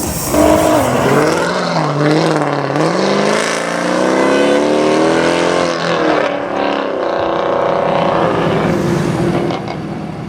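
Straight-piped Mercedes C63 AMG V8 exhaust running hard under acceleration. The note dips, climbs over a few seconds, drops about six seconds in, then holds steady and fades near the end.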